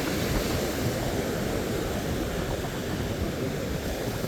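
Steady rushing noise of ocean surf on the beach, with wind rumbling on the microphone.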